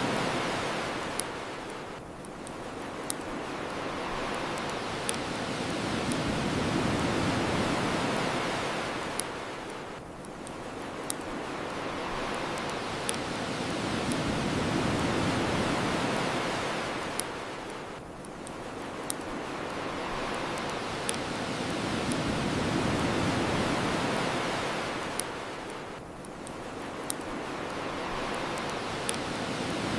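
Ocean surf washing onto the shore, swelling and falling back in a slow, regular cycle about every eight seconds. A crackling wood fire adds a scattering of sharp pops throughout.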